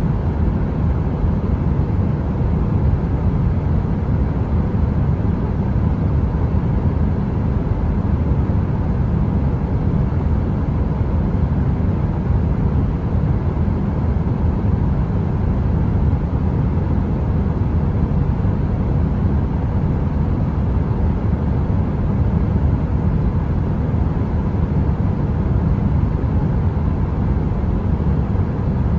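Heater running as steady, deep rushing noise, heaviest in the low end, with a faint even hum and no crackle or change.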